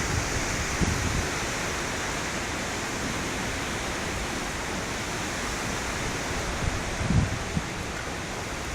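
Steady rushing noise of strong storm wind around a tornado, with a few low gusts buffeting the phone's microphone about seven seconds in.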